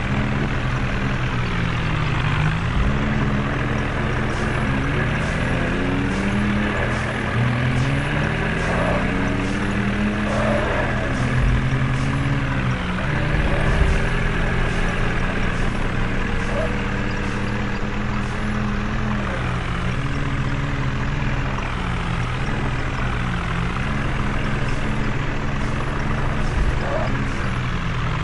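Tractor engine running continuously, its revs rising and falling again and again.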